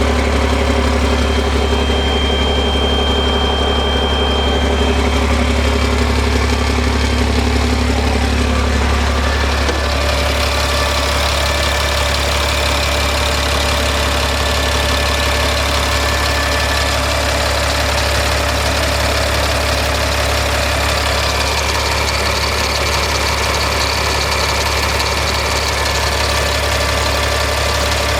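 Caterpillar CFE 7.2-litre inline-six diesel engine idling steadily. Its sound brightens slightly about ten seconds in.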